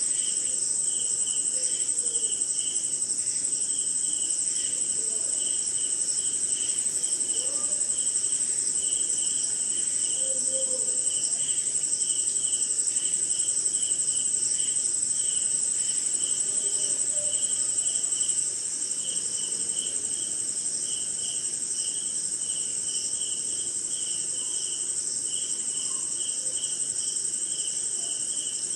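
Night chorus of crickets and other insects: a steady high-pitched trill over a second insect pulsing about two to three times a second, with faint low calls now and then. The overall level drops a little about two-thirds of the way in.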